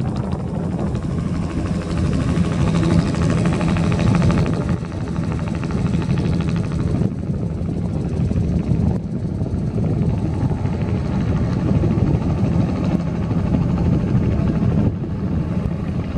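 Bell 206 JetRanger helicopter running loud and steady, its rotor chop and turbine heard together without a break.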